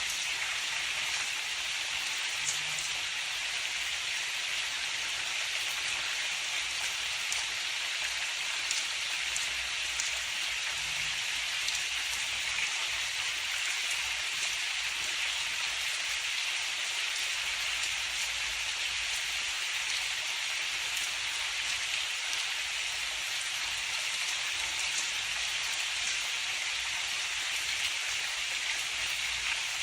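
Steady rain falling: an even hiss with scattered individual drop ticks and no thunder.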